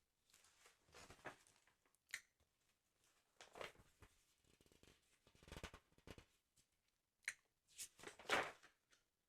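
Soft paper handling on a sticker album: several short rustles and scrapes of the pages, with a sharp click about two seconds in and again about seven seconds in.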